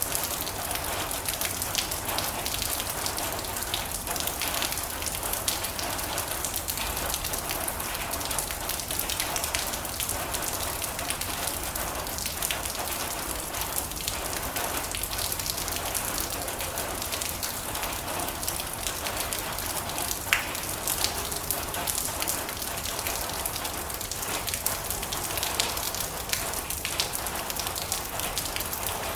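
Heavy rain falling on a metal roof: a dense, steady patter of countless drops, with one louder, sharper tick about twenty seconds in.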